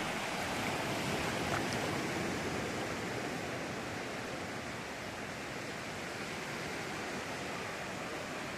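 Sea surf washing onto a sandy beach: a steady rushing hiss of waves without distinct breaks, easing slightly over the first few seconds.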